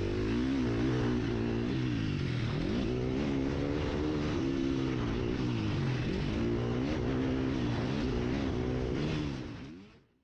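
Husqvarna FC 350 single-cylinder four-stroke motocross engine, its revs repeatedly climbing and dropping as the bike accelerates and shifts. The sound fades out near the end.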